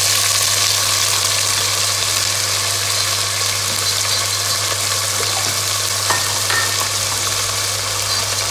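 Mixed vegetables and soya chunks sizzling in hot oil in a stainless steel pressure cooker: a steady frying hiss, with one small click about six seconds in.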